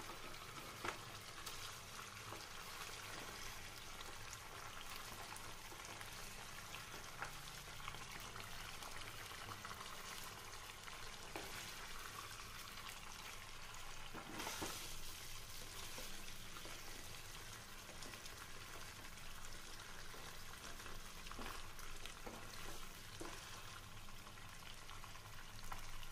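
Mutton phaal frying in a pan with a steady sizzle, stirred now and then, with a few sharp clicks.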